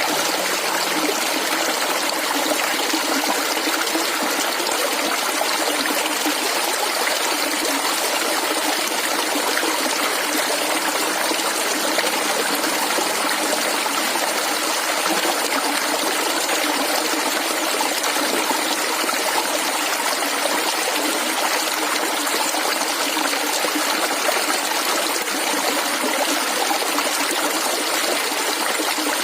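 Shallow water flowing and gurgling steadily over stones, a continuous, even babble.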